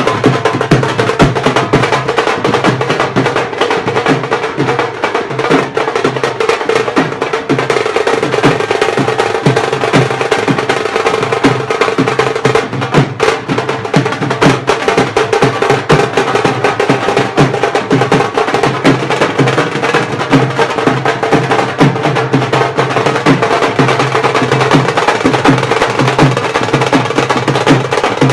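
Dhol drumming in a fast, unbroken rhythm of dense strokes, over a steady held tone.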